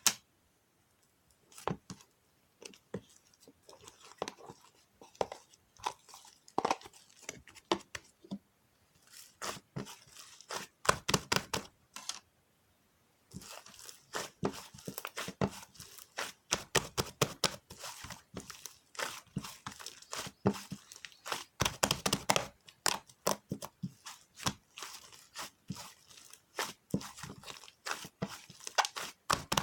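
Paper being handled, crinkled and torn in quick, irregular crackles, with short pauses now and then.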